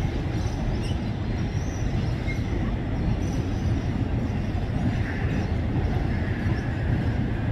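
Freight train's container wagons rolling across a steel truss bridge: a steady low rumble.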